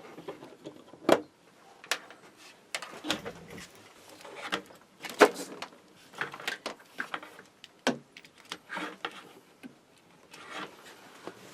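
Handling noise of small wires and heat shrink tubing being worked by hand: irregular clicks, taps and rubbing sounds.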